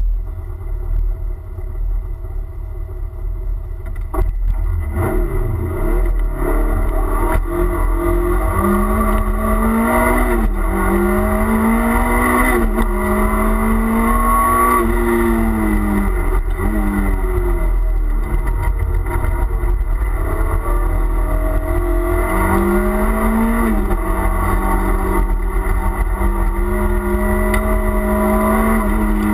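Renault Clio Williams's 2.0-litre four-cylinder engine heard from inside the cabin under hard acceleration. It is quieter and steadier for the first few seconds, then the revs climb and drop again and again as it changes gear and lifts for corners, with long stretches held at high revs.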